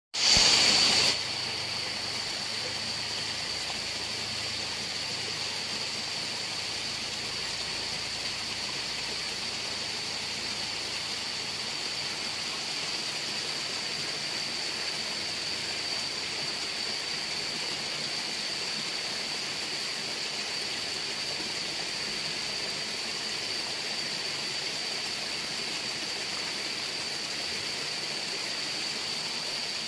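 Waterfall: a steady, even rush of falling water, louder for about the first second. A thin steady high tone runs through it.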